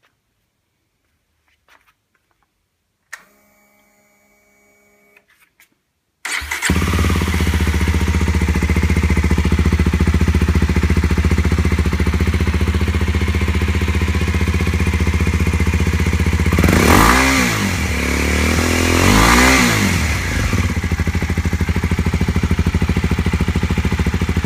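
Kawasaki Z250SL single-cylinder motorcycle engine with an Akrapovic exhaust. After a click and a brief whir, it starts about six seconds in and idles steadily, then is briefly revved twice before settling back to idle.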